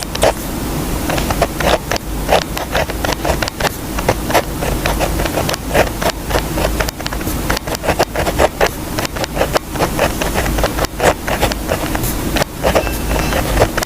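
Handwriting on paper: a rapid, irregular run of short scratchy strokes, over a steady low hum.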